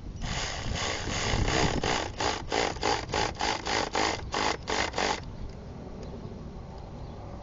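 Hand ratchet wrench being worked in quick back-and-forth strokes, about three a second, for around five seconds before it stops.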